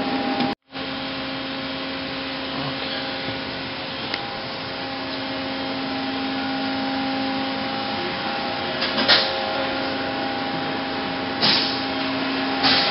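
Kia KH40A CNC horizontal machining center powered up and idling: a steady machine hum with a constant low whine. Three short knocks or clatters come in the last few seconds.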